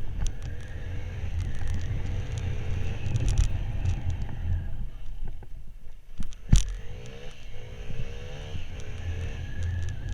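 Motorcycle running while being ridden, with wind buffeting the microphone; the engine pitch rises in a few stretches as it accelerates. One sharp knock about six and a half seconds in.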